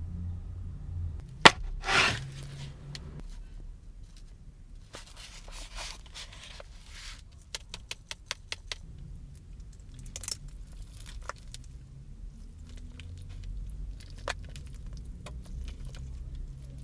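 Handling noises of food containers and utensils: a sharp click about a second and a half in and a short rustle right after, more crinkling and scattered small clicks later, over a low steady rumble.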